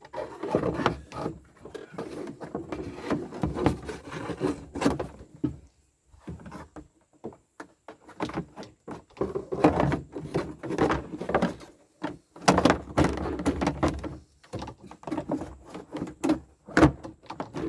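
Irregular knocking, clunking and scraping of a part being worked loose and pulled out of the excavator's stripped-down cab, with two short pauses.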